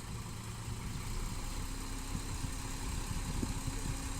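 Diesel engine of earthmoving machinery running steadily at low revs, a low even drone with a higher steady note joining about halfway.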